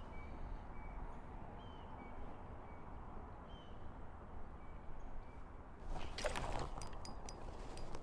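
Faint, short bird chirps repeating over a low outdoor background. About six seconds in, a burst of rustling with several sharp clicks.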